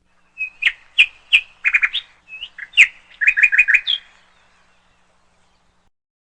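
Young drongo calling: a string of sharp chirps, some single and some in quick runs of three to five, ending on a higher note about four seconds in.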